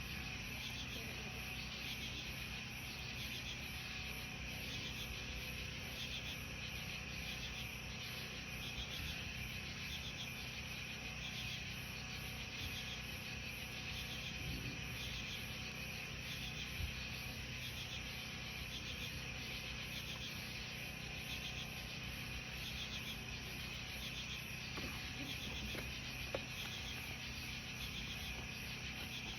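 Night chorus of crickets and other insects: a steady trill with a pulsing call repeating evenly a little over once a second.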